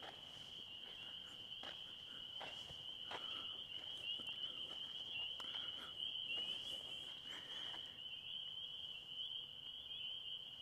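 Crickets chirping in a steady high-pitched chorus, with a few faint, sharp clicks and crackles scattered through it.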